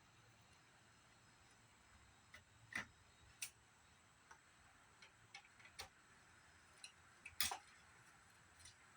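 Scattered light clicks and taps of small parts and tools being handled during the monitor's teardown. They come at irregular intervals, with the loudest knocks a few seconds in and near the end.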